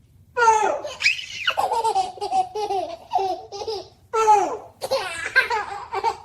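A baby laughing and giggling in a run of short, high-pitched bursts.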